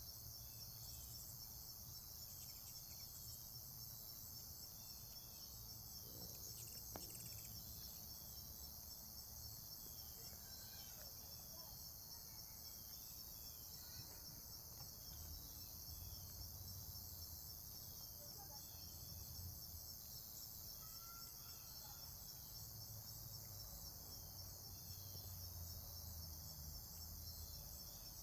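Steady, high-pitched chorus of insects trilling, with faint scattered bird chirps over it.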